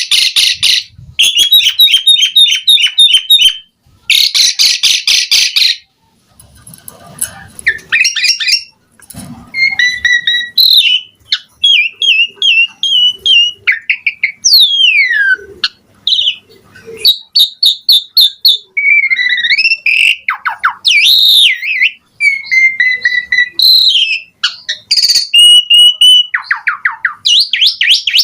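Asian pied starling (jalak suren) singing a long, varied song: harsh buzzing rattles, quick runs of repeated chip notes, and whistled notes that slur up and down.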